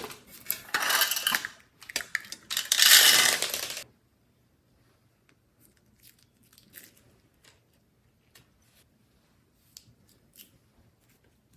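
Crackling, rustling handling noises from slime being mixed with makeup and glitter, lasting about four seconds, then a few faint scattered clicks.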